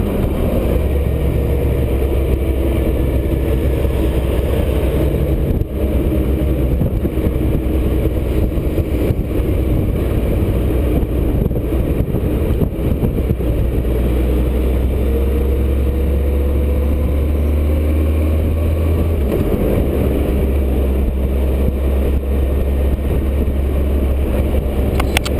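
Motorcycle engine running steadily at cruising speed under wind and road noise, with a brief dip about six seconds in and a change in the engine note about nineteen seconds in.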